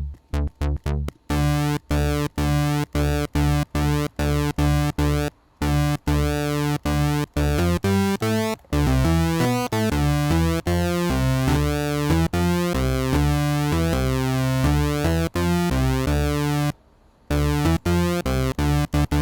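Sylenth1 soft synth playing a layered pulse-width-modulated square-wave patch, two PWM oscillators an octave apart, with no filter on it yet. It plays a run of short staccato notes, then longer held notes, then short notes again, bright, with the harmonics sweeping as the pulse width moves.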